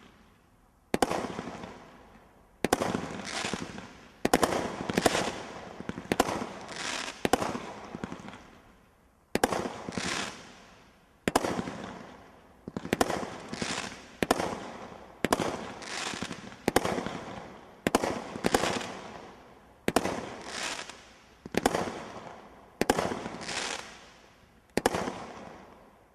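Ninjas barrage firework (a consumer multi-shot cake) firing a long run of shots, about one a second and sometimes in quick pairs. Each shot is a sharp bang with a fading tail.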